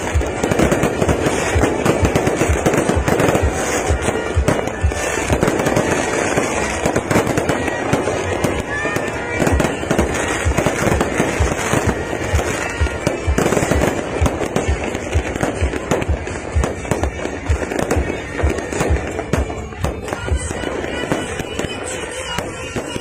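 Fireworks display: a steady, rapid succession of bangs over continuous crackling, with music playing underneath.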